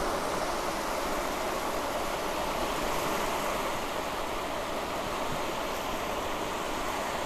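Steady wash of gentle surf on a sandy beach, an even rushing noise with no distinct breaks.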